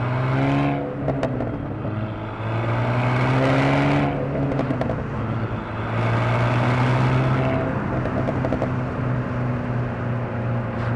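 Alpine A110's 1.8-litre turbocharged four-cylinder engine pulling hard under acceleration, its pitch climbing through the gears with two quick dual-clutch upshifts that drop the pitch, about four and seven and a half seconds in.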